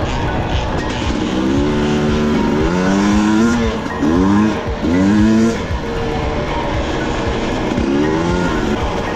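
Two-stroke dirt bike engine revving, its pitch rising again and again as it accelerates, loudest between about four and five and a half seconds in.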